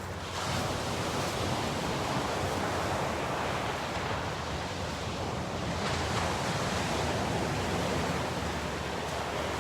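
Ocean surf washing onto the shore in a steady rush, swelling slightly about half a second in and again around six seconds in.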